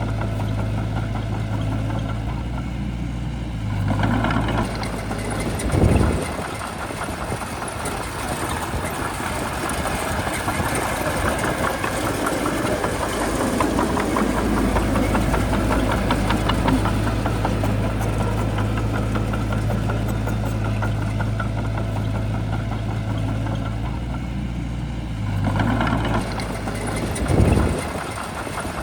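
Shantui bulldozer's diesel engine running steadily under work. Its note shifts about four seconds in and again near the end, each time followed a couple of seconds later by a brief louder surge.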